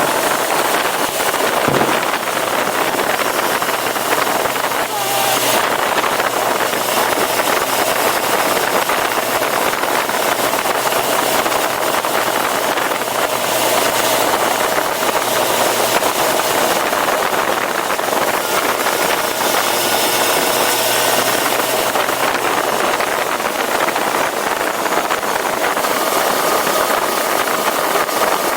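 Yamaha FZ6R sportbike's 600 cc inline-four engine running at a steady cruise while riding, with wind rushing over the microphone.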